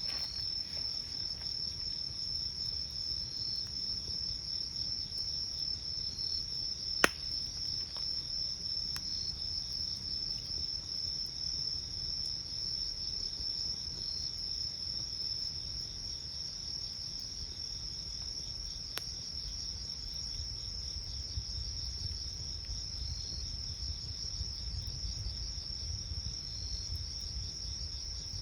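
Night insects trilling in one steady high tone, with a shorter chirp repeating about every two seconds. Over this come a few sharp pops from a wood campfire, the loudest about seven seconds in.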